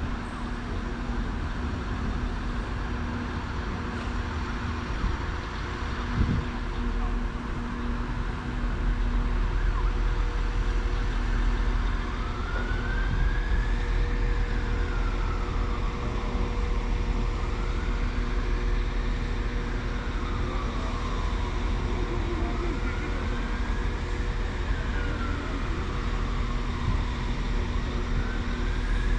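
A siren wailing slowly up and down, about one rise and fall every five seconds, starting a little before halfway through. Under it runs a steady low rumble with a faint steady hum.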